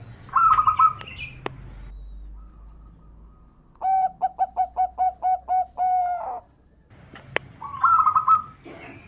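Zebra dove (perkutut) singing its cooing song: a short rolling trill, then a run of about nine quick staccato coos ending on a longer held note, and another rolling trill near the end. Two sharp clicks are heard, one early and one near the end.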